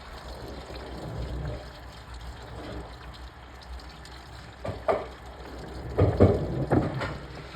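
Washing machine running with water pouring and sloshing inside the drum over a steady low hum, with a few louder knocks or sloshes near the end.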